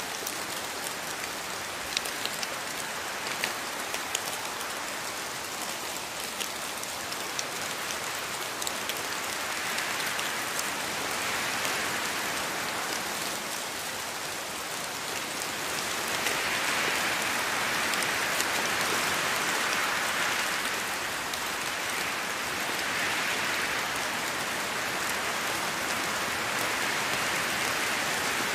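Steady rainfall on rainforest foliage, with individual drops ticking sharply in the first few seconds. The rain swells heavier about ten seconds in and again past the halfway point, then holds.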